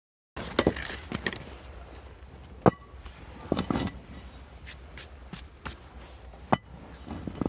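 Half a dozen irregular sharp knocks and clanks of hard objects. The loudest, a little under three seconds in, rings briefly like struck metal.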